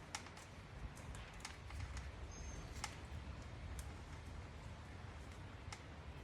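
Faint, scattered small clicks and ticks of hands handling wires and connectors, over a low background rumble, with one brief high chirp about two and a half seconds in.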